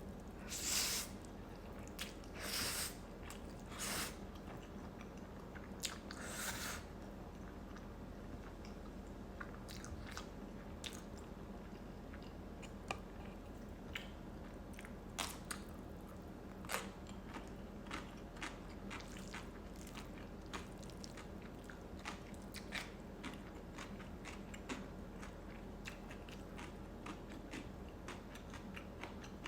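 Close-up mouth sounds of a person eating noodles and chewy rice cakes. There are a few longer noisy bursts in the first seven seconds, then many soft, short chewing clicks. A steady low hum runs underneath.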